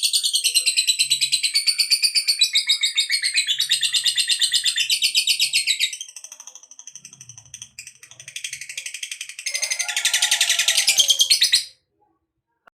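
Lovebird giving long, shrill, rapid chattering trills (ngekek). The trilling drops off about six seconds in, comes back louder around ten seconds with some lower calls mixed in, and cuts off suddenly near the end.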